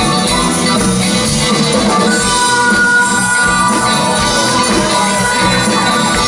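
Rock band music with guitar and drum kit, played loud and steady, with held notes coming in about two seconds in.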